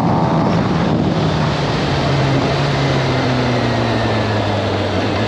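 Kawasaki ZX-10R's inline-four engine running under way, with wind noise over the microphone. The revs step down about two and a half seconds in and then fall slowly.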